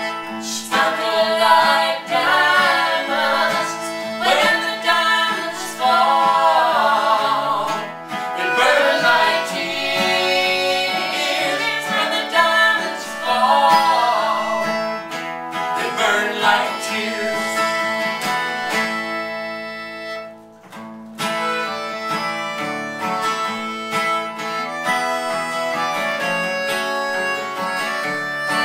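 Acoustic country string band playing an instrumental break between verses: a wavering lead line over plucked strings, with a short drop in level about twenty seconds in.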